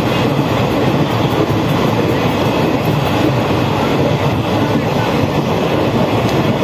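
Indian Railways express passenger train running at speed, heard from inside a coach at an open window: a steady, loud din of the wheels on the rails.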